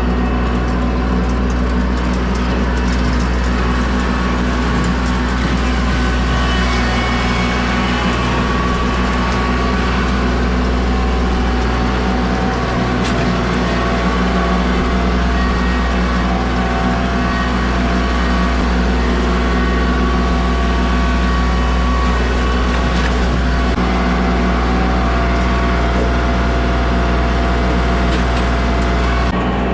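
A heavy engine running steadily at a constant speed, with a few faint knocks over it.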